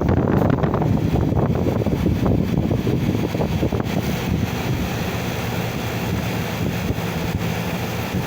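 Air conditioner running steadily with its fan blowing and a low hum from the newly replaced compressor, while the unit is being charged with refrigerant.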